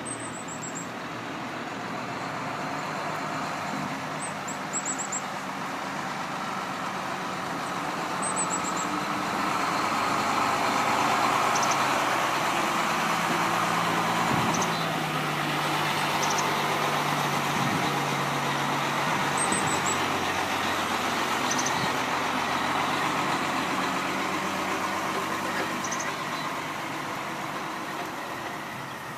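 Truck engine running, its sound swelling louder toward the middle and then fading somewhat.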